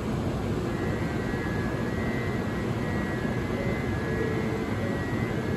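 N700S Shinkansen electric train beginning to pull away from the platform after its doors close: a steady hum with a faint high whine setting in about a second in as it starts to accelerate.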